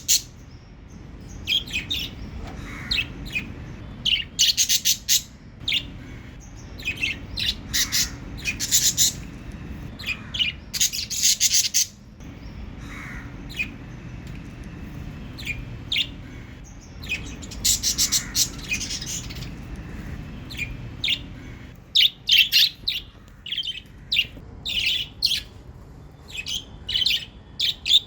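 Pet budgerigars chirping and warbling in quick irregular clusters of short high notes, with brief pauses, over a low steady background hum.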